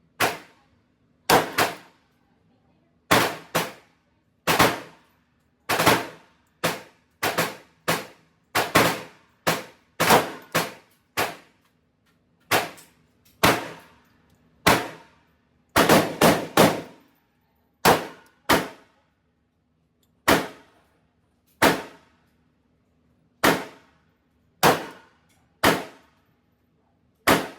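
Glock 45 9mm pistol firing at an indoor range: about three dozen shots, some single and others in quick pairs and short strings, each with a brief echo off the range walls.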